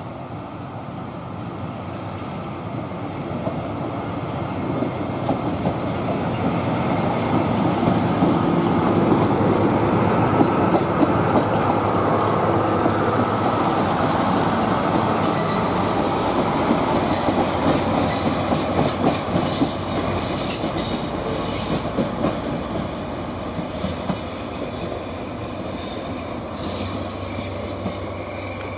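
Train running on the rails: its sound builds over several seconds and then slowly fades, with wheels clacking over rail joints and a high wheel squeal for several seconds in the middle.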